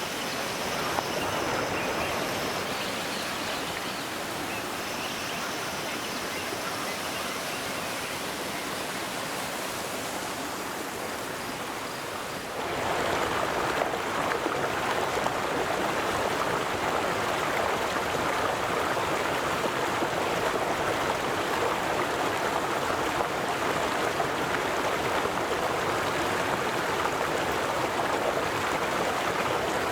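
River water flowing steadily in a continuous rushing wash. About twelve seconds in it suddenly gets louder and fuller and stays that way.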